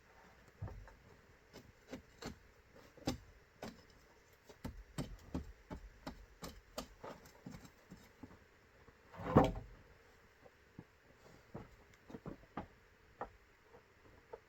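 Irregular light wooden knocks and taps, as of bamboo pieces being handled, with one much louder knock about nine seconds in.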